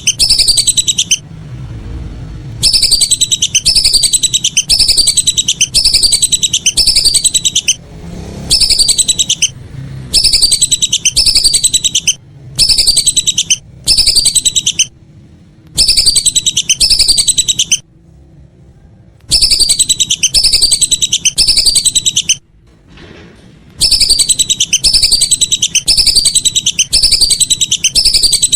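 Recorded whistling duck (belibis) calls played back loud as a bird-hunting lure: runs of high, slightly falling whistled notes, about two a second, broken by short gaps every few seconds.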